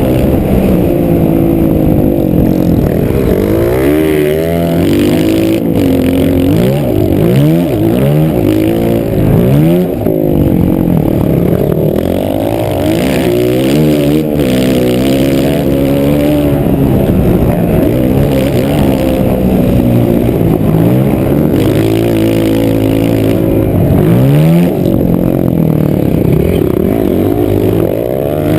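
Motocross bike engine revving hard and falling back again and again, its pitch climbing through each gear and dropping as the throttle closes.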